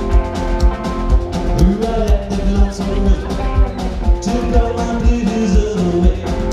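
Live rockabilly band playing: drums keep a steady beat about twice a second under guitars and a low singing voice.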